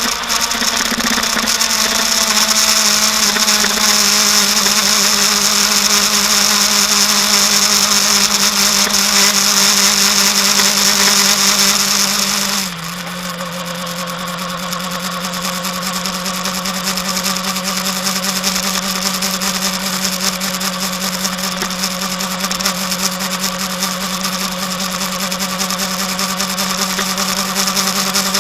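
Kawasaki Ninja ZX-10R superbike's inline-four engine running at steady revs, with a high hiss over it. About 13 seconds in, the pitch and loudness drop slightly and then hold steady again.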